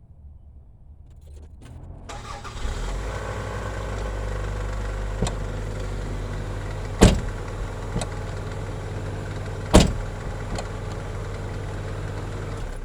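A car engine starts about two seconds in and idles steadily, then shuts off near the end. Two loud sharp knocks and a few lighter clicks sound over it.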